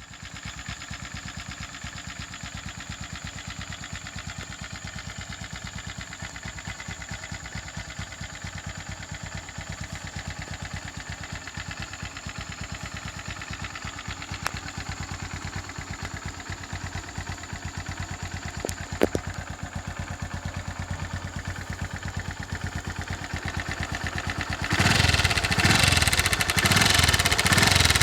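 Honda CB Twister 110's single-cylinder four-stroke engine idling with a rapid, even ticking from loose tappets: the valve clearance has opened up and needs adjusting. About 25 seconds in the sound becomes much louder.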